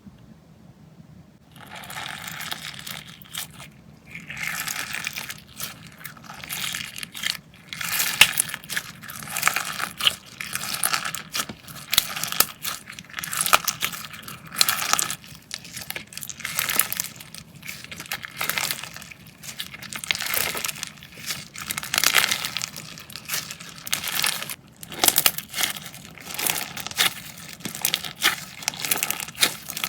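Slime being squeezed and pressed by hand close to the microphone. It makes a dense run of small clicks and pops in repeated squishes, which start about a second and a half in.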